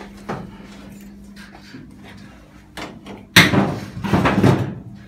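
A door being opened: a couple of light clicks, then a loud clatter and rattle that starts suddenly about three seconds in and lasts over a second.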